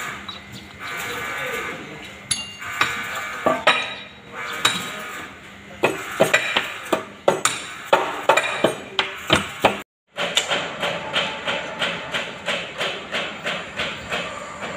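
Metal-on-metal knocks and clanks of workshop tools and heavy parts at irregular intervals, then a steady rhythmic clicking at about three clicks a second.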